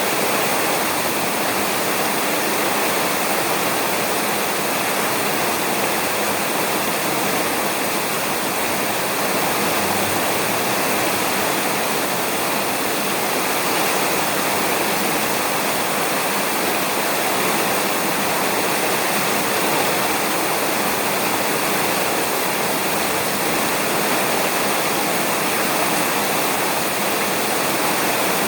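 Steady heavy rain falling on a roof, an even, unbroken hiss with no thunder.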